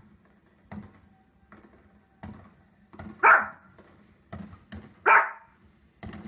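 A small fluffy dog barking twice, two sharp single barks a little under two seconds apart.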